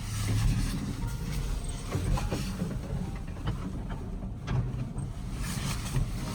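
Steady low rumble of a moving vehicle, with a few light knocks and clicks.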